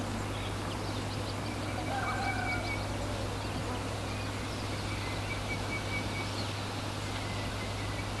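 Outdoor nature ambience: a steady low hum and background noise, with faint birds chirping and one short call about two seconds in.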